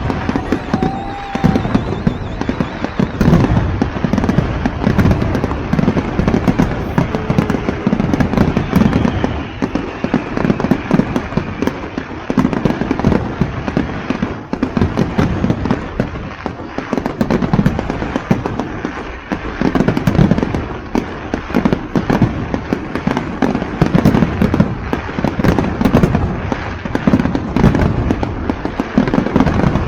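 A fireworks display going off continuously, with dense, overlapping bangs and crackles, and a few whistling rockets early on.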